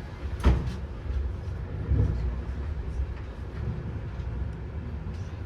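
Regional train running, a steady low rumble in the carriage, with a sharp knock about half a second in and a duller thump around two seconds.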